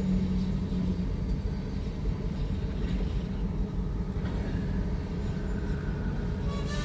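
A log train rolling by with a steady low rumble; a low droning tone stops about a second in, and faint higher tones come in near the end.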